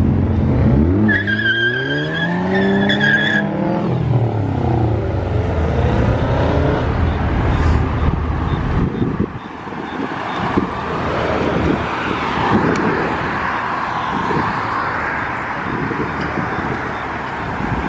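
Car engine revving up and back down, with a steady high-pitched squeal over it for a couple of seconds; then a rough hissing tyre noise over the running engine, as of tyres spinning in a burnout.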